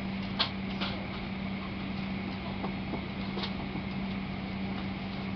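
Steady low hum of running ramp machinery, with a few sharp knocks about half a second in, near one second, and around three and a half seconds.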